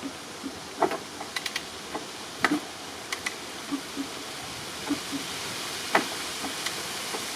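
Irregular light clicks and taps, one or two a second, over a steady hiss; no engine is running.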